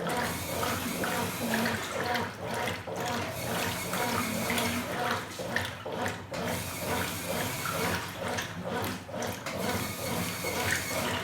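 Top-loading washing machine agitating a load: water sloshing in the tub in a steady back-and-forth rhythm over a low motor hum.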